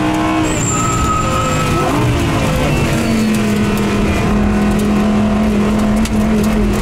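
Audi R8 GT4 race car's naturally aspirated V10 heard on board while lapping. The pitch shifts and glides in the first couple of seconds, then holds steady for the rest.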